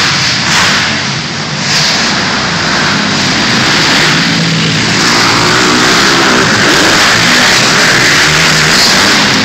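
Loud dirt bike engines revving and accelerating, their pitch rising and falling.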